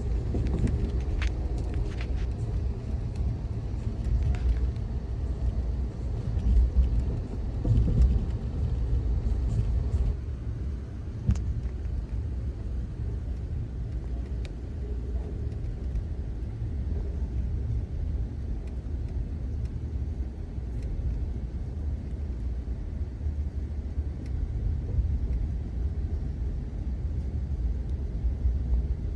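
Steady low rumble of a moving passenger train rolling along the track, with scattered sharp clicks and rattles over the first dozen seconds or so.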